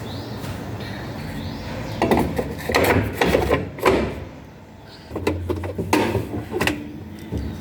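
Knocking and clattering of objects being handled, in two spells of several quick knocks, over a steady low hum.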